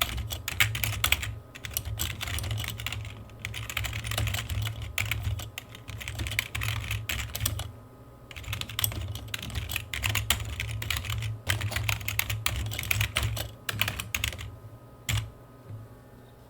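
Typing on a computer keyboard: quick runs of key clicks in bursts with short pauses between them, a last few keystrokes near the end, then it stops.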